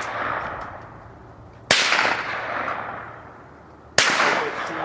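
Two close gunshots about two seconds apart, each trailing off in a long echo. Fainter shots from elsewhere crack in between.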